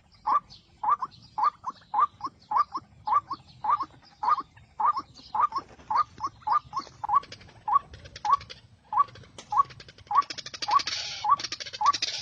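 White-breasted waterhen calling: a monotonous run of short, rising notes, about two to three a second. A short burst of rustling noise comes about ten seconds in.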